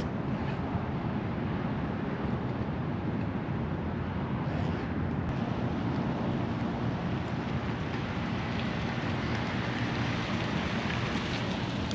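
Harley-Davidson Softail Standard's V-twin engine running steadily under a constant rushing hiss.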